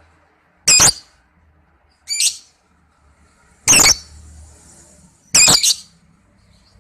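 Lovebird giving four short, shrill calls, roughly a second and a half apart, the second one weaker than the others.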